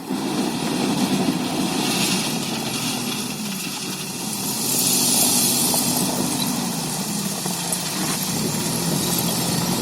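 Heavy diesel engine running steadily at low speed, with a hiss that swells and fades around the middle.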